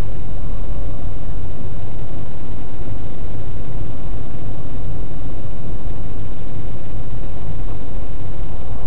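Car driving at expressway speed: steady engine and road noise, a constant low rumble under a hiss.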